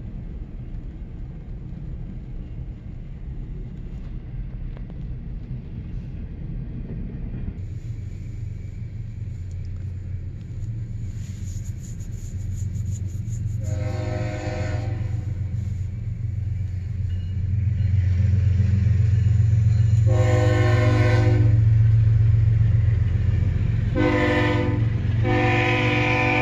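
Double-stack intermodal freight train rolling past with a steady low rumble that grows louder in the second half. From about halfway a diesel locomotive's air horn sounds four chord blasts of a second or so each, the last running on at the end.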